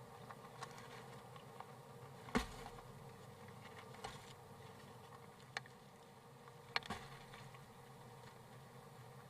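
Scattered faint scratches and sharp taps from a bird shifting about inside a wooden nest box, the loudest a little over two seconds in, over a low steady hum.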